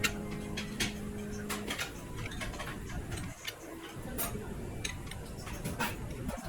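Irregular light clicks and taps, with a low steady hum that stops about two seconds in.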